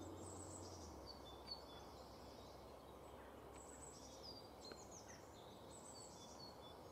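Near silence with faint birdsong: scattered high chirps and short falling whistled notes from small birds.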